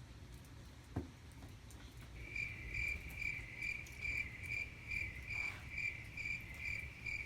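A small animal's steady, high-pitched chirping call, repeating about two and a half times a second, starting about two seconds in. A single click about a second in.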